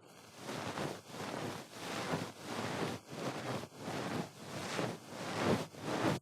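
An ear pick scraping and rubbing in an ear in slow, even strokes, about one and a half a second.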